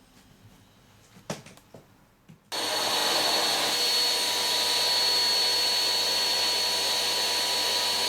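Vacuum cleaner switched on about two and a half seconds in, after a few handling knocks, then running steadily with a high whine.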